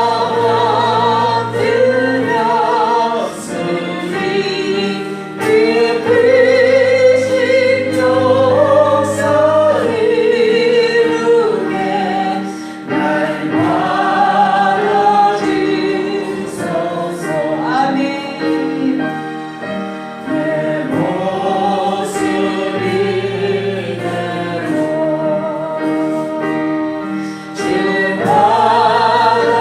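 A congregation singing a hymn together with instrumental accompaniment and a steady bass line.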